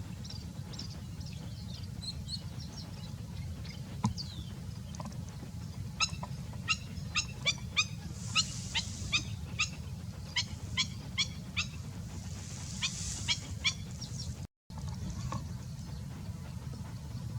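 A bird gives a run of short, loud, repeated calls, about two to three a second, starting about six seconds in and stopping near thirteen seconds. Faint high chirping runs under it before and after.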